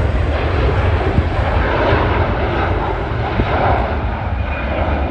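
Jet airliner engines, a loud steady rumbling noise that slowly eases, its high hiss dropping away after about a second and a half.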